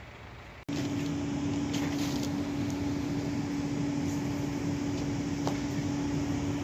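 A steady machine hum with a single held tone, starting suddenly about a second in and cutting off suddenly at the end, with a few faint clicks.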